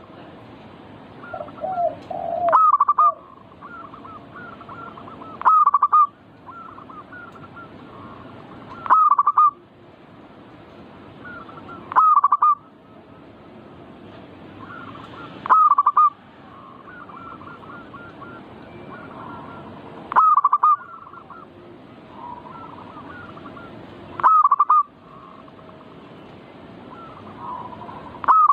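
Zebra dove (perkutut) calling: a short, loud cooing phrase repeated about every three to five seconds, eight times, with fainter bird calls between them over a steady hiss.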